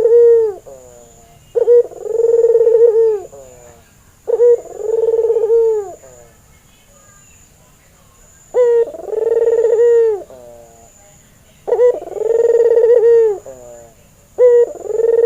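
A white albino puter dove cooing its rhythmic 'ter-kukurr' call about five times, every three seconds or so. Each call opens with a short sharp note followed by a longer rolling coo.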